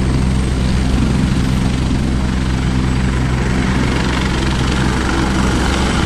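Rescue helicopter close by, its rotor running with a loud, steady, rapid chop.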